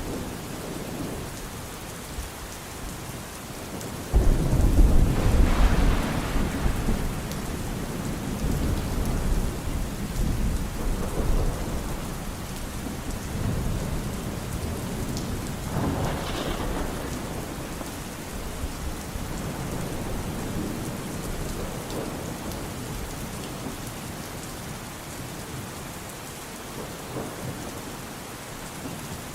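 Thunderstorm: steady rain with thunder. A sudden loud thunderclap about four seconds in rumbles on for a few seconds, and a second, weaker crack and roll of thunder comes about sixteen seconds in.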